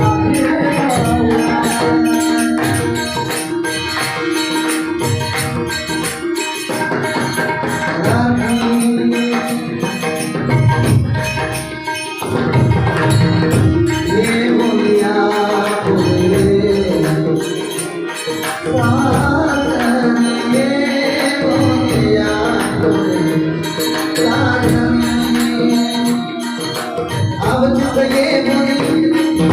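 A Marathi gaulan, a devotional song about Krishna, sung by a male voice over sustained instrumental notes, with percussion keeping the beat.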